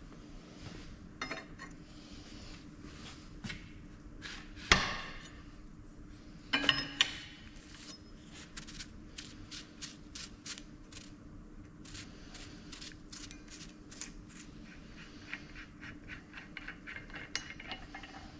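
Metal tools and steel cylinder parts clinking and knocking during dismantling of a hydraulic cylinder, with one sharp ringing metallic strike about five seconds in and a short clatter of knocks a couple of seconds later, over a steady low hum.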